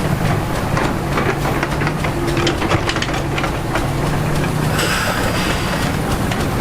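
Diesel engine of heavy earthmoving equipment running steadily under a low hum, with many irregular metallic clicks and clanks over it.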